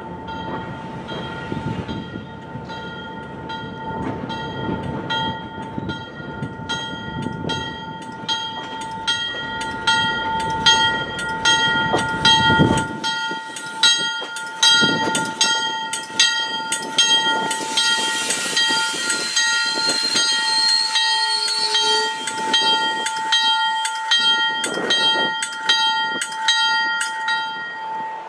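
MBTA push-pull commuter train rolling slowly by, with a bell ringing steadily at about two or three strikes a second over the rumble of the cars. A high wheel squeal comes in about two-thirds of the way through.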